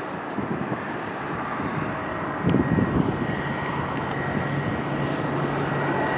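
Airliner engines running, a steady rumble that grows gradually louder, with a thin high whine joining partway through. A brief louder low burst comes about two and a half seconds in.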